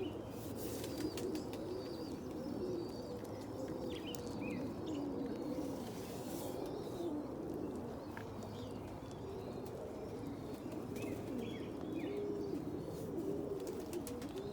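Domestic pigeons cooing, several overlapping coos running on without pause, with a few faint higher chirps and light clicks.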